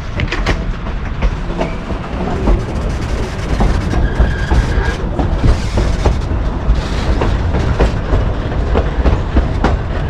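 Narrow-gauge passenger train rolling along the track, heard aboard: a steady low rumble with irregular clicks and rattles of the wheels over the rail joints, and a brief high squeal about four seconds in.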